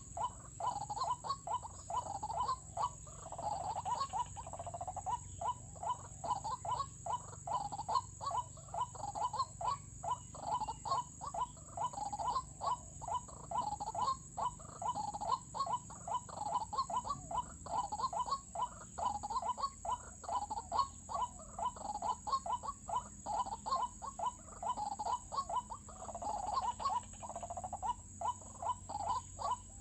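White-breasted waterhen calling: a harsh, frog-like note repeated over and over, about two to three calls a second, without a break.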